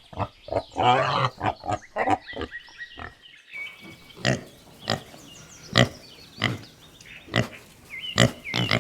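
Domestic pig grunting: a run of throaty calls at first, then short single grunts a little under a second apart.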